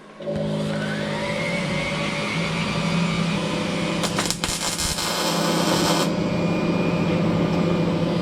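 A welding fume extractor switches on, its fan motor spinning up with a rising whine over about two seconds and then running steadily. About four seconds in, a crackling hiss lasts roughly two seconds: the arc of a brief test weld.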